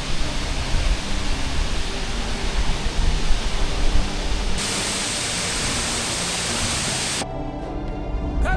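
Steady rush of falling water from a waterfall, cutting abruptly about four and a half seconds in to a brighter, hissier rush. Near the end the water cuts out and quiet music with held tones comes in.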